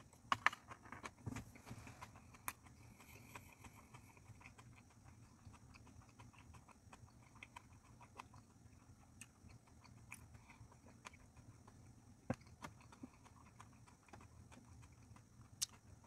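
Soft, closed-mouth chewing of a bite of sushi, with scattered small mouth clicks and smacks. A few louder clicks come in the first second or so, once about twelve seconds in, and again just before the end.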